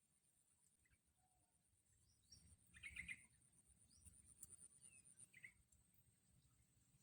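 Faint bird chirps: a few short calls, the clearest about three seconds in and another a little after five seconds, over a faint steady high-pitched tone.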